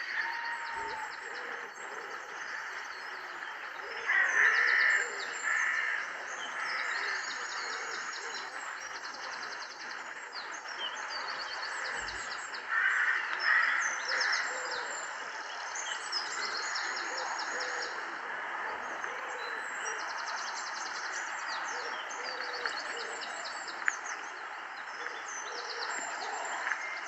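Birds chirping and trilling again and again over a steady background hiss, with louder bursts of calls about four seconds in and again about thirteen seconds in.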